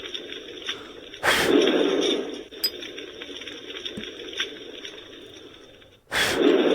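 Campfire crackling sound effect from a Takara Tomy FireWood Home's built-in speaker: a steady bed of small pops and snaps that swells louder twice, about a second in and near the end.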